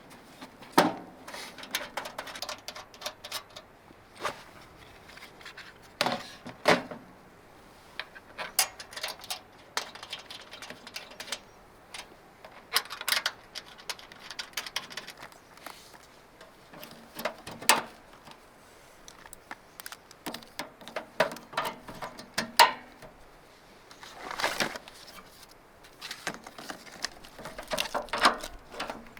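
Irregular clicks, knocks and light rattles of things being handled, coming in short clusters with quieter gaps between.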